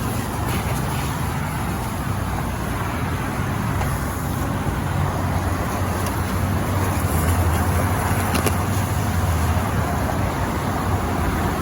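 Steady low vehicle engine hum with freeway traffic noise.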